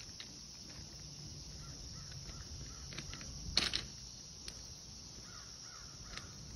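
Faint outdoor bird calls, with one louder, short call about three and a half seconds in.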